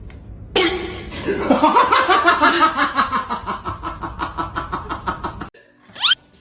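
A person laughing hard in a long run of rapid pulses, about five a second, that cuts off suddenly about five and a half seconds in. A short rising sound follows near the end.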